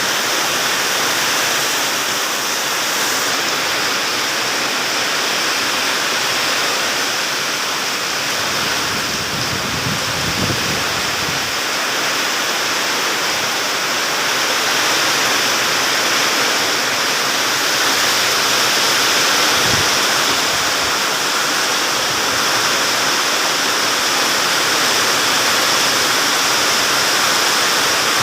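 Heavy rain pouring steadily in a storm with strong wind. A brief low rumble comes about ten seconds in and a shorter one near twenty seconds.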